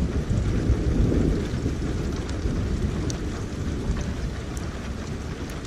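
Steady rain with a low rolling thunder rumble that is strongest in the first second or so and then slowly eases. A few faint raindrop ticks sound over the hiss.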